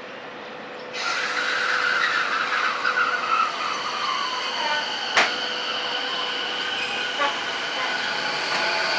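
Odakyu 4000 series electric train running, its IGBT-VVVF inverter whine gliding down in pitch as the train slows, over steady high tones. One sharp clack comes about five seconds in.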